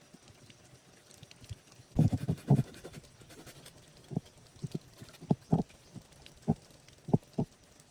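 Irregular dull knocks and taps: a quick run of several about two seconds in, then single knocks every half second to a second.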